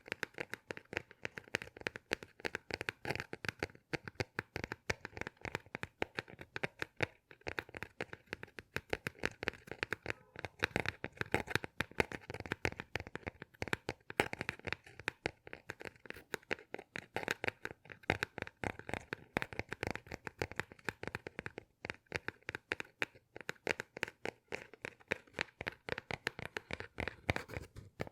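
Dense, rapid crackling and crinkling from something handled in the hands close to the microphone, a continuous run of many sharp little clicks each second.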